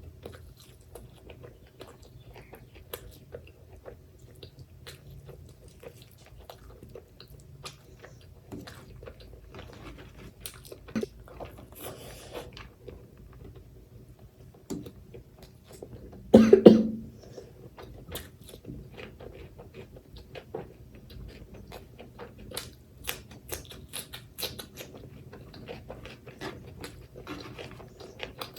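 Close-up chewing and mouth smacking over mouthfuls of mutton curry and rice, with many small wet clicks throughout. About sixteen seconds in, one loud short cough stands out above the chewing.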